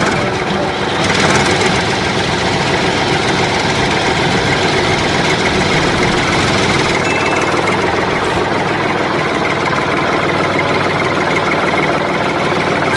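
A small engine running steadily, which in this DIY mini tractor drives a miniature water pump.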